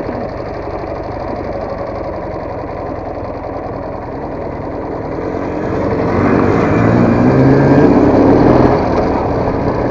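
Motorcycle engine running on a trail ride, then revving up under throttle about six seconds in, its pitch rising and the sound getting louder.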